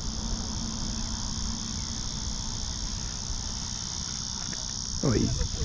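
Steady high-pitched drone of insects, a cicada or cricket chorus, over a low rumble, with a brief voice near the end.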